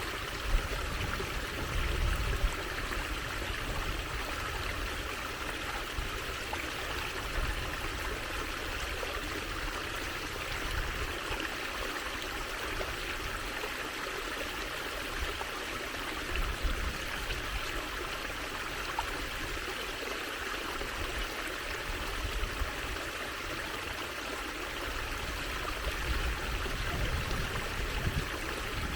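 Water trickling and running steadily, like a small stream.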